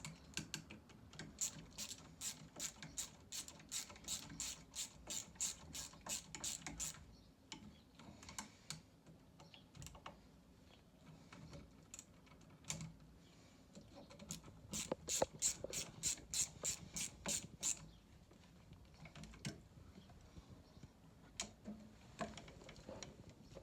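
Ratchet spanner clicking in steady runs of about three clicks a second, with a pause and then a second run, as the bolts holding a stairlift drive motor are tightened.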